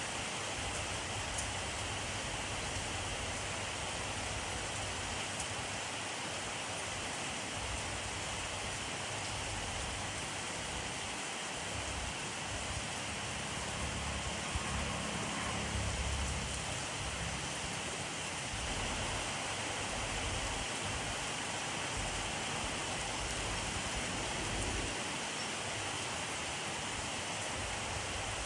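Steady rainfall, a dense even hiss of rain falling on surfaces. A low rumble swells briefly about halfway through.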